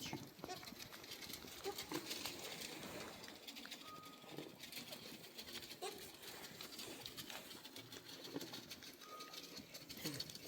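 Faint, low cooing bird calls, repeated now and then, among scattered small clicks and knocks.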